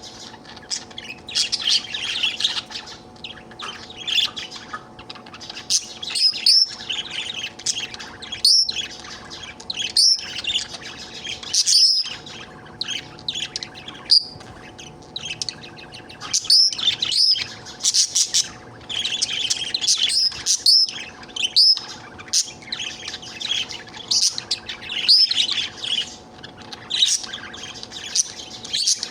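Budgerigar chattering and warbling, with a steady stream of quick chirps and frequent short, sharp calls.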